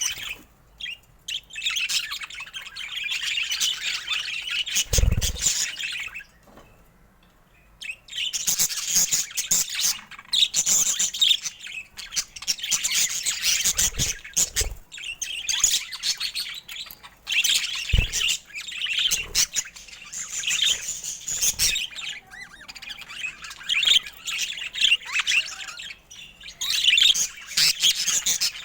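Budgerigars chirping and chattering in rapid, high-pitched runs, with a brief lull about six to eight seconds in. A few soft low thumps are mixed in.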